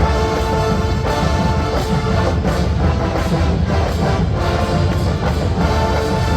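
Large marching band playing: brass holding sustained chords over drums and heavy low percussion.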